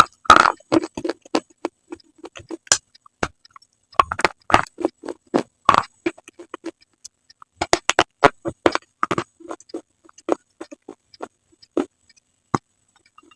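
Close-miked crunching and chewing of slate items: a string of sharp, irregular crunches and clicks with short pauses between bites.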